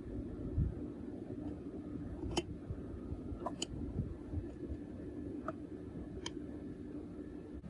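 Metal parts or tools clicking sharply about four times over a steady low workshop hum.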